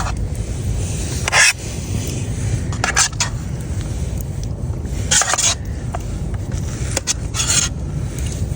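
Serving spoon scraping hotpot out of a titanium pot, four short scrapes a couple of seconds apart, over a steady low wind rumble on the microphone.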